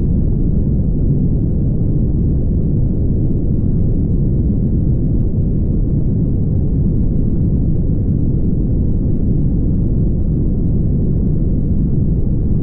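Steady low road rumble of a car driving at highway speed, made of tyre and road noise with the engine underneath. It stays even throughout, with no distinct events.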